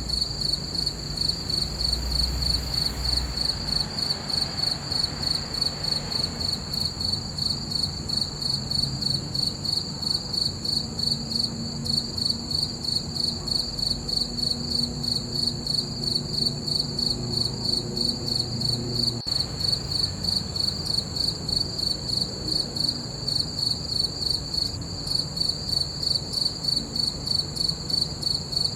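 Crickets chirping at night: a steady, high, evenly pulsing trill that never lets up, over a faint low hum.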